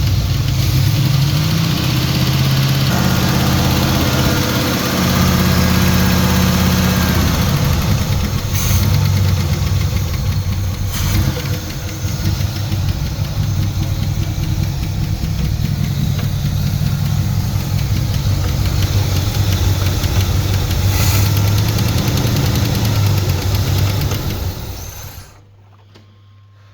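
Turbocharged Pontiac Trans Am V8 running steadily while a newly installed flat-tappet camshaft is broken in. Its engine speed shifts a few times in the first several seconds. The sound cuts off sharply near the end.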